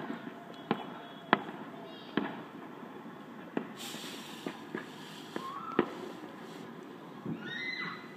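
Fireworks going off across the valley: a string of sharp bangs and cracks at irregular intervals, with a brief rushing hiss about four seconds in. Near the end comes a whine that falls in pitch.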